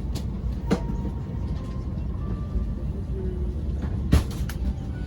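Steady low rumble inside an Airbus A330 cabin, with two sharp knocks, one about a second in and a louder one near the end.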